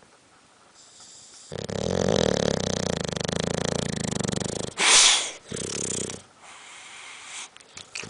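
Dog snoring: a long, fluttering snore lasting about three seconds, then a loud, sharp, hissing breath and a shorter snore.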